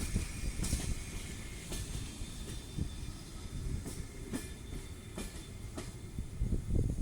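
Train running past on the line, its wheels clicking irregularly over the rail joints over a low rumble.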